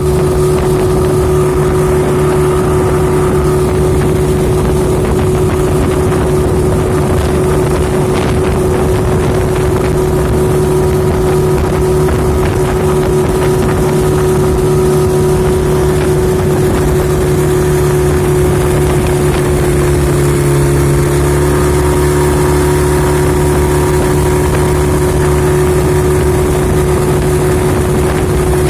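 An engine running steadily at a constant speed, a loud even drone with a fixed hum.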